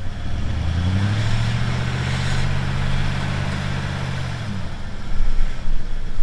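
Ford F-150 pickup's engine revving up and holding high revs for about four seconds under load as the truck forces its way through crusted snow, then dropping back. Louder rough noise follows near the end.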